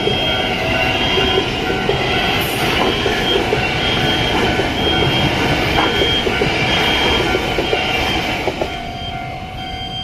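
Taiwan Railway electric multiple-unit train rolling through a level crossing with a loud rumble of wheels and cars. Over it, the crossing's electronic warning bell chimes a little faster than once a second. The train noise eases near the end, leaving the warning chimes.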